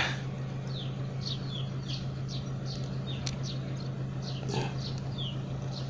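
Many short, high, downward-sliding animal chirps or yelps, scattered irregularly, over a steady low hum.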